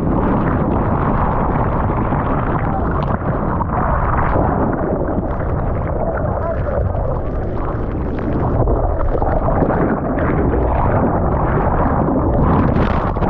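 Surf and rushing water in the waves, loud and steady, with wind buffeting the microphone.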